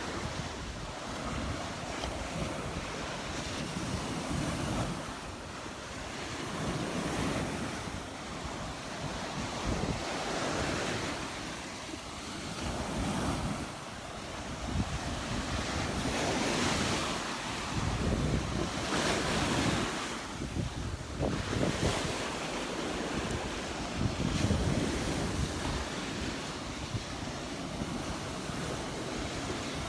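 Surf breaking and washing on a sandy beach, rising and falling in slow swells, with wind buffeting the microphone.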